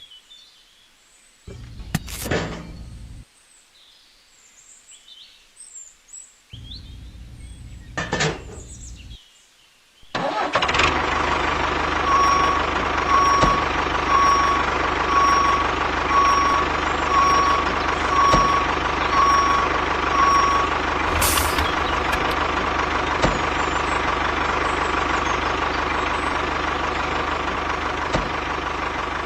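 After a quiet stretch with a few brief clicks, a vehicle engine starts running suddenly about ten seconds in and keeps running steadily. From about two seconds later a reversing beeper sounds a little more than once a second, about a dozen beeps, then stops.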